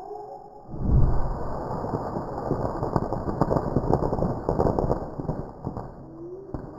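A small pyrotechnic charge going off: a sudden bang about a second in, then dense crackling for about five seconds that dies away near the end.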